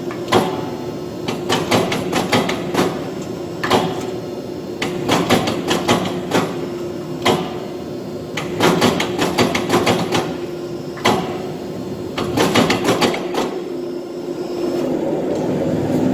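Irregular metal knocks and clanks, some single and some in quick runs of several strikes, over a steady machine hum. Near the end a louder, steady rumbling machine noise starts.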